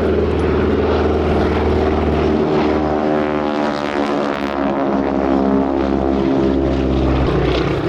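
Boeing Stearman biplanes, upgraded 'Super Stearmans', flying by with a steady loud engine drone. It carries the rasp of propeller tips going supersonic, and its pitch shifts about three to four seconds in as the aircraft pass and manoeuvre.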